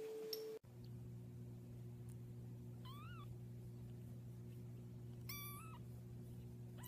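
A cat meowing twice, short calls that rise and fall in pitch a couple of seconds apart, over a steady low hum.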